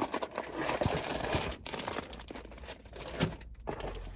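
Plastic packaging crinkling and rustling as it is handled and opened, with small clicks and knocks.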